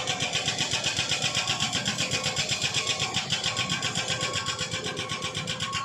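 A small engine running steadily with a fast, even beat of about ten pulses a second.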